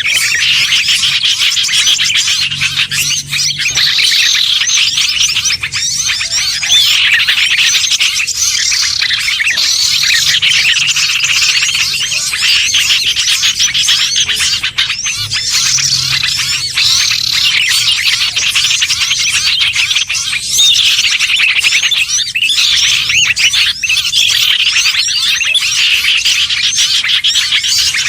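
A dense chorus of many small songbirds chirping and twittering at once, fast overlapping high calls and trills with no break, as in a bird-lure recording.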